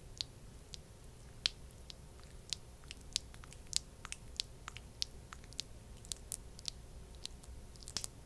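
Thick, sticky skin-care product being pressed and worked by hand, giving irregular sticky clicks and crackles, a few each second.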